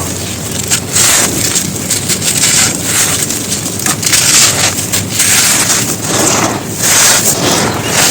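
Dry, crumbly earth material crumbling and being crushed: a run of irregular gritty crunches that swell and fade every half second to a second.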